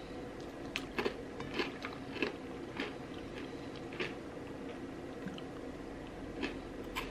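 Close-up mouth sounds of someone chewing crunchy fried food, with irregular crisp crunches and smacks over a faint steady hum.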